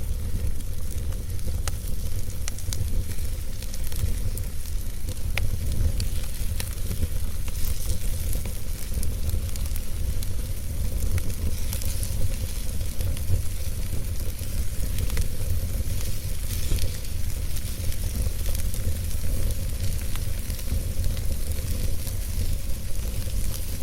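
Wood fire burning in a fireplace: steady crackling with scattered sharp pops over a low, even rumble.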